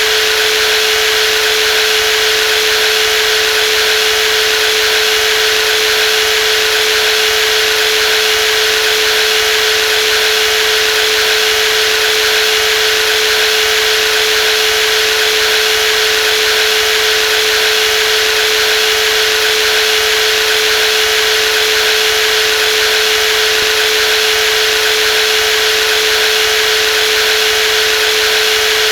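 Brushless jigsaw running at a constant speed: a steady, unchanging hum with a hiss above it.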